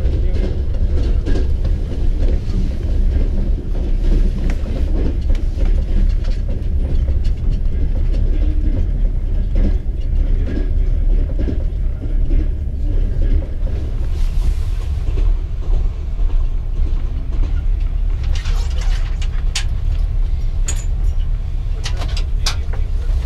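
Passenger train running across a steel truss bridge, heard from inside the carriage: a steady heavy rumble of the wheels, with a few sharp clicks near the end.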